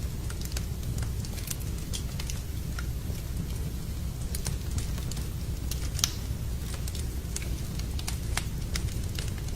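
Wood fire burning in a fireplace, crackling with scattered sharp pops, the loudest about six seconds in, over a steady low rumble.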